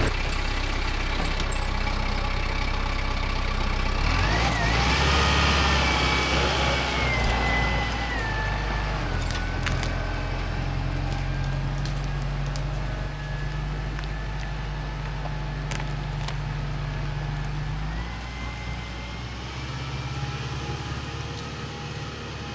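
A vehicle engine running steadily, its pitch shifting a few times, with a high whine that rises and falls in the first half.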